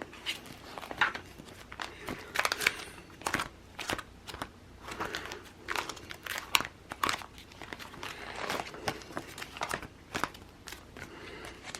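Sticker sheets and planner paper being handled, giving irregular crinkling and crackling rustles.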